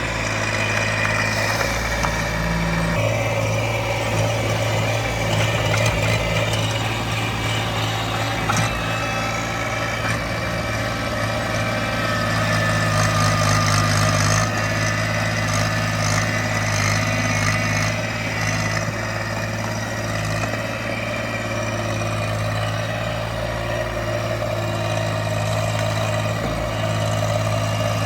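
Small tractor's engine running through the whole stretch, with its level swelling and easing a little.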